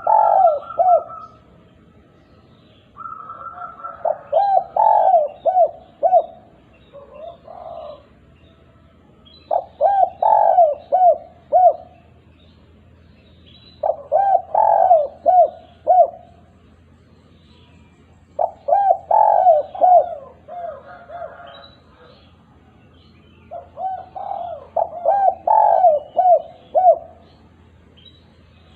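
Spotted dove (derkuku) singing its 'kuk 2' song over and over. Each phrase is a quick run of coos, and a new phrase comes about every four to five seconds. Faint chirps of small birds sound higher up between the phrases.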